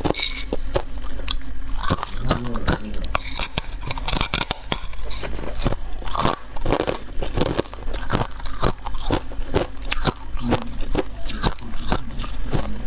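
Close-up crunching of freezer frost and ice being bitten and chewed, a dense run of irregular crackly crunches.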